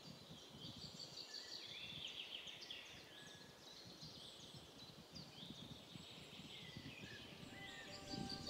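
Small birds chirping faintly in many short calls, over a low rumble of wind on the microphone.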